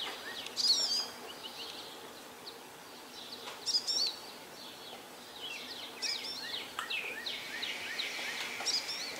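Wild birds chirping and singing in short, high phrases every couple of seconds, over a faint steady background hum.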